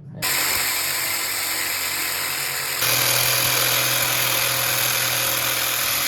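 Loud, steady machine noise that starts suddenly and changes abruptly about three seconds in.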